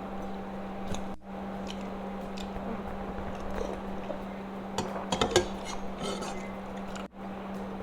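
Cutlery clinking and scraping on a plate while someone eats fried rice, with a cluster of louder clinks about five seconds in, over a steady low hum.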